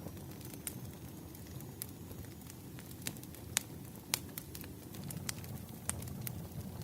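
Burning firewood crackling, with irregular sharp pops scattered over a steady low rumble.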